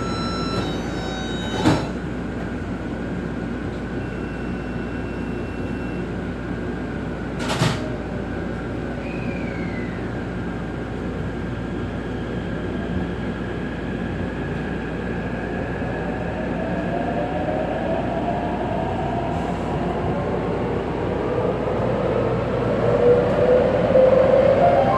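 Taipei Metro C381 subway train running, heard from inside the car: a steady rumble of wheels on rails, with two sharp clicks early in the stretch. Over the last third a pitched electric traction-motor whine bends in pitch and grows louder.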